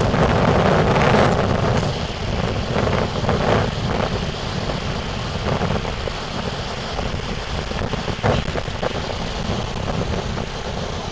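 Strong gusting wind from an approaching hurricane buffeting the microphone, over the wash of surf on the beach. It is loudest in the first two seconds and then eases slightly, rising and falling.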